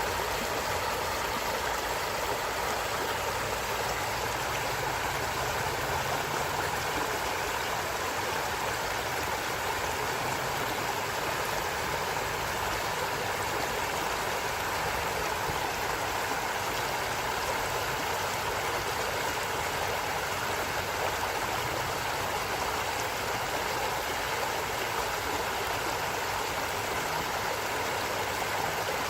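A forest stream flowing, a steady rushing and gurgling of water over stones that holds even throughout.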